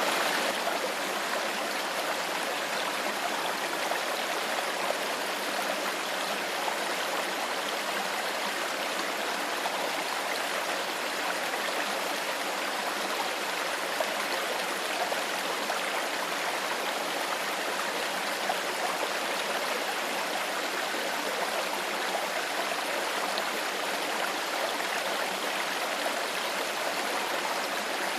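Clear stream water flowing steadily over rocks, an even rushing and babbling.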